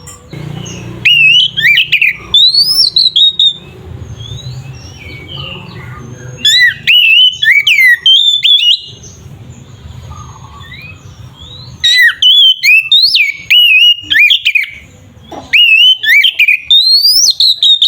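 Oriental magpie-robin (kacer) singing loud, varied song: rapid whistled notes that sweep up and down, delivered in four bouts separated by short pauses.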